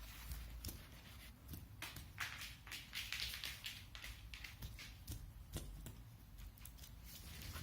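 Scattered light taps, clicks and rustling from pet ravens pecking at fruit and rummaging about, busiest in the middle.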